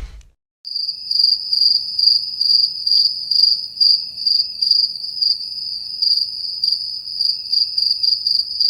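Stock crickets sound effect: a steady, high cricket trill pulsing in quick chirps, starting just under a second in and cutting off abruptly near the end. It opens on the fading tail of a thump.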